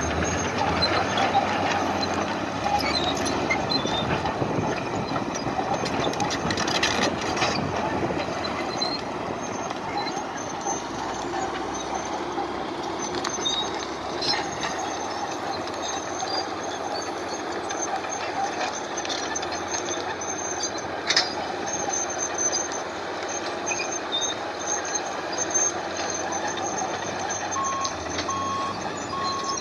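Heavy vehicle running with a steady engine rumble; near the end a reversing alarm starts beeping evenly.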